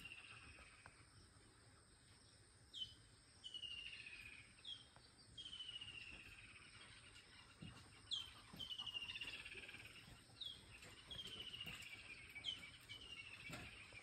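Faint bird song: a short high note followed by a falling trill, repeated about every two seconds, five times.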